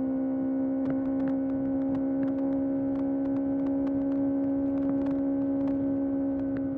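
Kawasaki ZX-6R's 636 cc inline-four engine running at a steady high rev, its note held level under constant throttle, with scattered short ticks over it.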